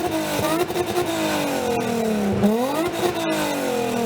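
Car engine revved through its exhaust: held high and slowly falling, then a quick second rev a little over two seconds in, after which the pitch sinks slowly again.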